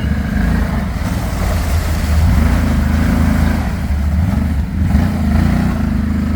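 ATV engine running under load, its note rising and falling as the throttle is worked.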